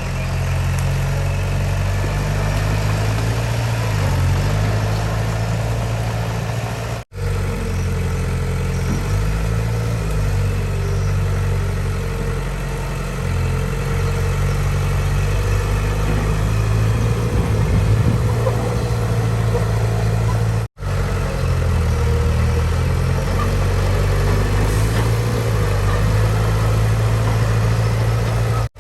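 Heavy machinery's diesel engine running, its pitch shifting up and down as it is throttled. The sound cuts out for an instant twice.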